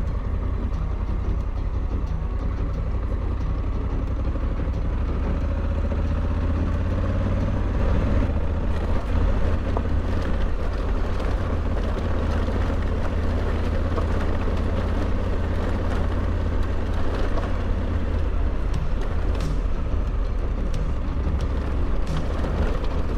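Honda Africa Twin 1100's parallel-twin engine running steadily under way, with road noise from the ride over a rough, wet dirt track.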